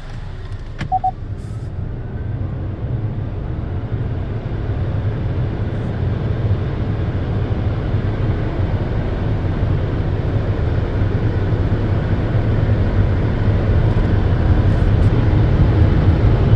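Car wash machinery and water spray running with a steady low rumble that grows gradually louder. A click and a short high tone come about a second in.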